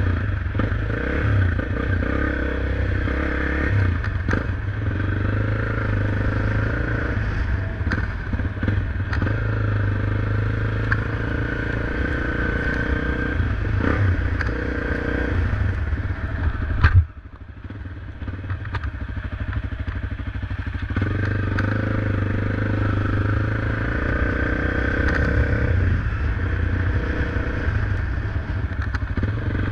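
Motorcycle engine running while riding, with rattling and scraping from a rough track. About seventeen seconds in there is a sharp knock; the engine sound then drops away for a few seconds before picking up steadily again.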